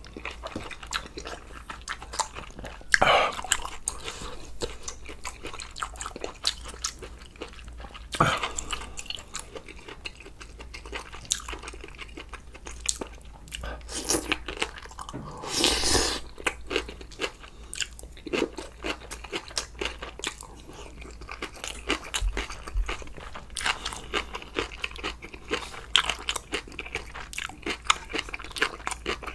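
Close-miked eating sounds of a man chewing and biting through spicy sundae-gopchang hot pot: constant wet mouth clicks and smacks, with a few louder mouth noises.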